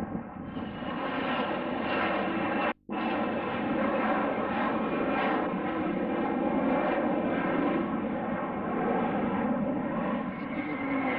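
Fixed-wing aircraft engines running steadily, with a brief sudden drop-out about three seconds in.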